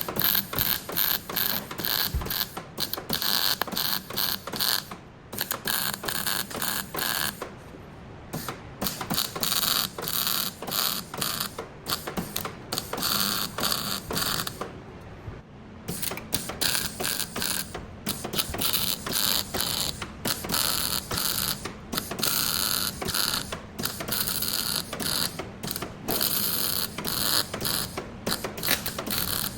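Hand-tool work on a car body: quick, irregular mechanical clicks and knocks mixed with stretches of rasping, scraping noise.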